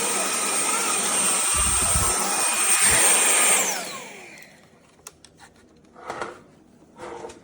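KCLASO cordless stick vacuum running with a steady high whine and rush of air, then switched off about three and a half seconds in, its motor spinning down with a falling whine. A few light clicks and knocks follow.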